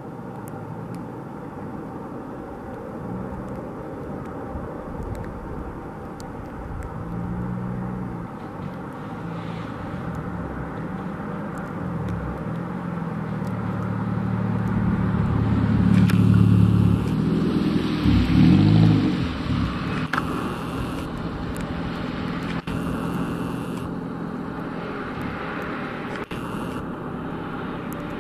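Airbus A330-200 jet engines on landing approach: a steady rumble that builds to its loudest with a falling pitch sweep about two-thirds of the way through as the airliner passes, then eases off.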